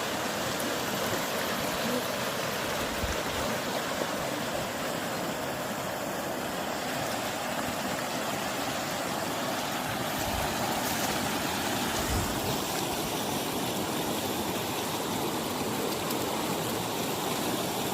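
Steady rush of floodwater running over a farm road, with a few faint low bumps.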